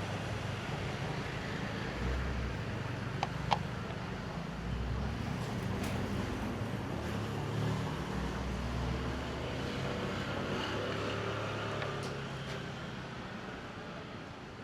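The steady low hum of a passing motor vehicle engine, easing off over the last few seconds. Two short, sharp high ticks come a little over three seconds in.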